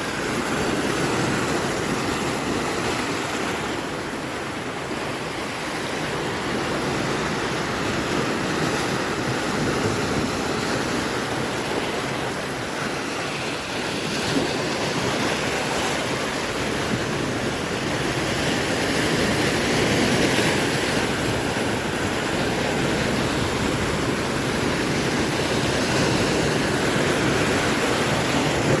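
Heavy swell surf breaking on the shore: a continuous rushing wash of waves that swells and eases over several seconds.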